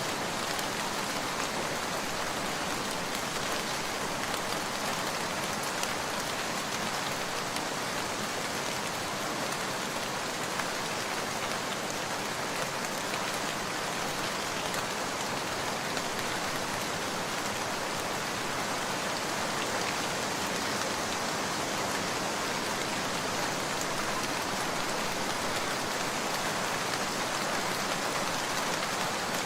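Steady rain falling as an even, unbroken hiss, with a few faint clicks.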